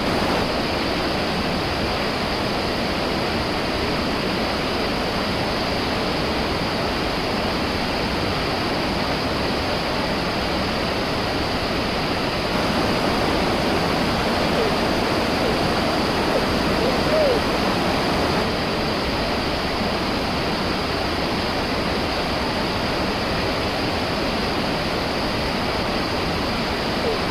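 Steady rush of a waterfall, an even roar of falling water. A couple of faint short whistles come through about 15 and 17 seconds in.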